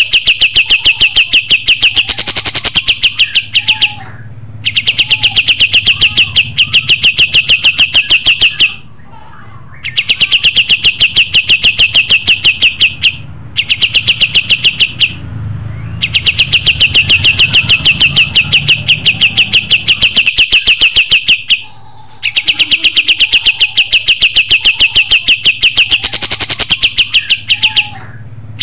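Kapas tembak songbird singing loud, rapid runs of sharp repeated chirps, high-pitched and rhythmic, in phrases of a few seconds separated by short pauses.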